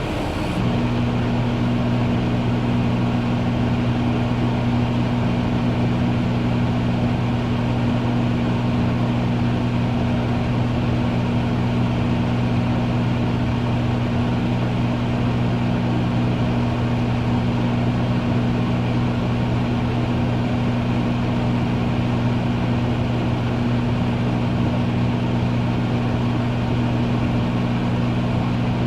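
Microwave oven running: a steady, deep electrical hum over the even whir of its fan. The hum comes on about half a second in and then holds unchanged.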